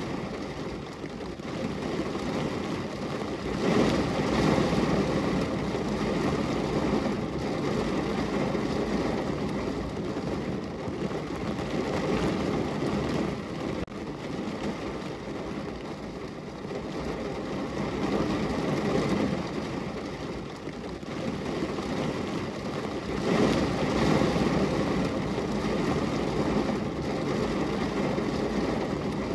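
Steady rain on a window glass: a dense, even rushing noise with a heavy low rumble, swelling louder twice, about four seconds in and again near the end.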